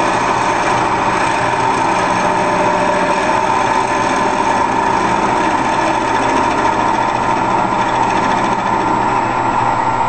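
Harbor Freight 10 x 18 wood lathe, converted for metal cutting, running steadily while turning a wooden pulley blank; a loud, even machine whine with a strong high tone.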